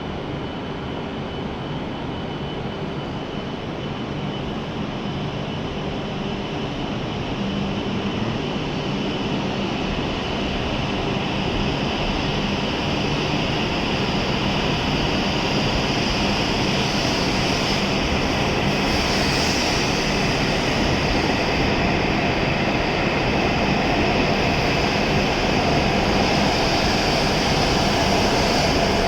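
W7 series Shinkansen train pulling out of the station, its running noise growing steadily louder as it gathers speed, with a thin high whine early and a brighter hiss building in the second half.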